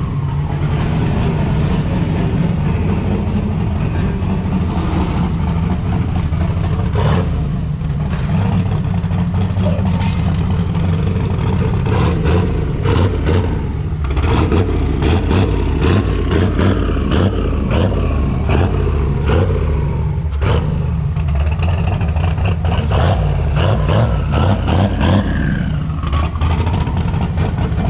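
A car engine running loud and close, with many short knocks and clicks over it.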